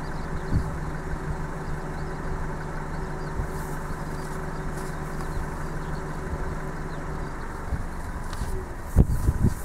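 Strong wind rushing over the microphone, with a steady low hum that stops about seven seconds in, and a few loud wind thumps near the end.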